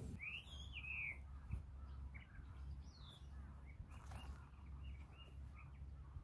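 Faint outdoor birdsong: a few curved, whistled calls about a second in, another near the middle, then a quick run of short chirps, over a low steady rumble.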